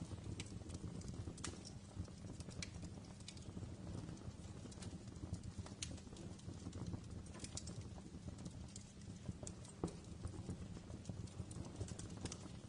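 Wood fire in a fireplace crackling: a low, steady rush of flames with irregular sharp pops and snaps from the burning logs.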